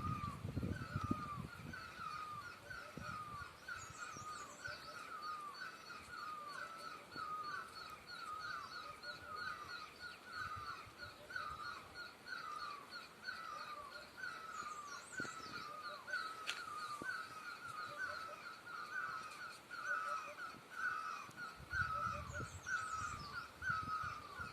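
Birds calling: a continuous run of short, harsh, repeated calls, about two a second, with a few higher chirps over them now and then. A low rumble comes in near the start and again near the end.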